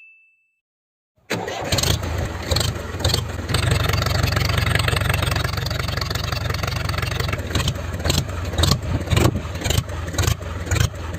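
An engine starting about a second in, after total silence, then running loudly with a heavy low rumble and irregular surges in revs.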